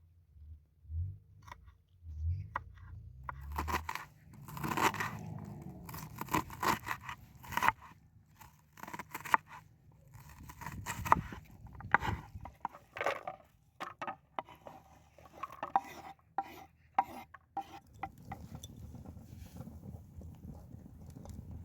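Hand food preparation with utensils: irregular scraping, crunching and clinking of knife, vegetables and dishes.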